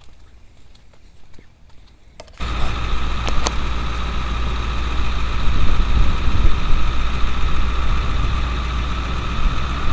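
A vehicle's engine running steadily, heard from inside the cab. It comes in abruptly about two seconds in, after a quiet start.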